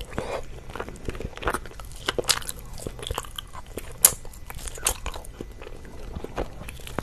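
Close-miked biting and chewing of a cocoa-dusted strawberry mochi, heard as many irregular mouth clicks and smacks, with a sharper click about two and four seconds in.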